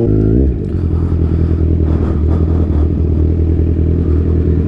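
Kawasaki Z1000's inline-four engine under way. Its revs fall in the first half-second, then hold steady.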